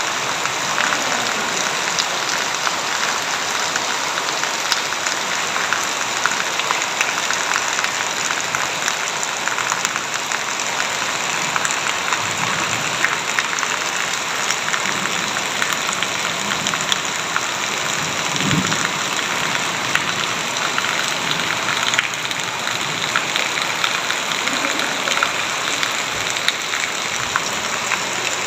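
Heavy rain falling steadily: a dense, even hiss full of individual drop ticks.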